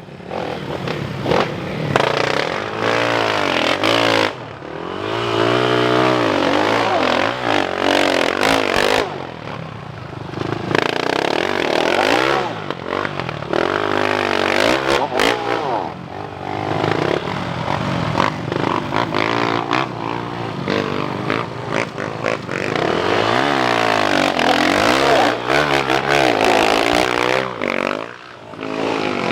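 Motocross bike engines revving hard, one bike after another, the pitch rising and falling as they power up the climb and shift, with short lulls between bikes.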